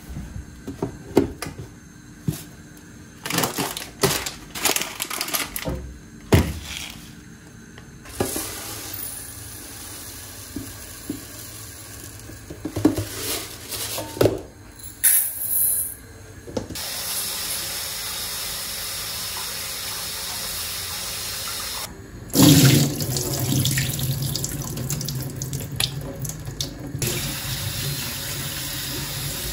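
A kitchen tap running into the sink in spells, with the water rushing louder and fuller from about two-thirds of the way through. Scattered knocks and clatter come first.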